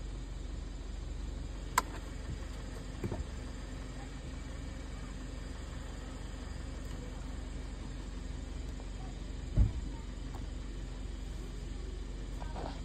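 2013 Kia Sorento engine idling steadily, heard from inside the cabin. There is a sharp click about two seconds in, a few light knocks a second later, and a heavier thump near ten seconds.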